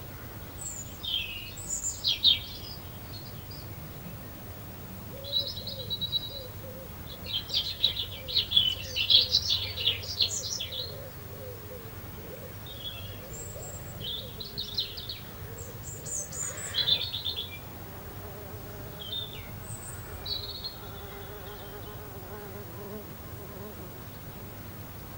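Small garden birds chirping and singing in short, irregular bursts of high notes and quick trills, busiest in the first half and thinning out towards the end.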